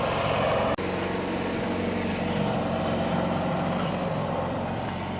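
Small riding lawn tractor engine running steady, with a brief cut in the sound under a second in.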